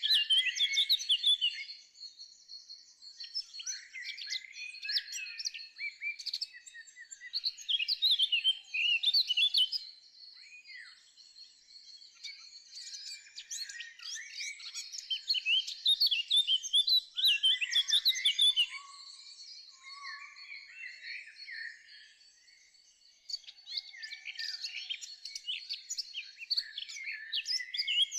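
Birds singing: dense, quick chirping and twittering in runs of several seconds, broken by short lulls.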